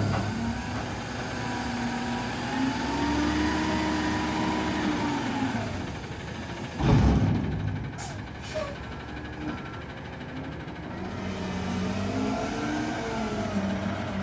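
A garbage truck's engine revs up and settles back twice while it works at the dumpster. There is one loud bang about seven seconds in.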